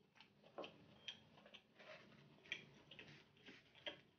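Faint, irregular wet clicks and smacks of a person chewing a mouthful of sushi with her mouth closed.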